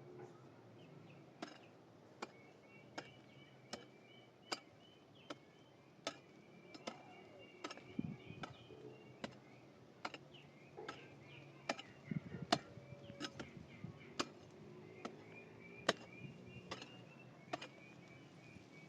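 Sharp, regular knocks of a hand tool being struck, roughly one every three-quarters of a second, with faint high chirping behind them.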